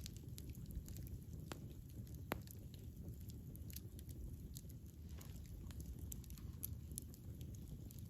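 Wood fire burning with a low steady rumble and irregular crackles and pops, a few sharper pops standing out.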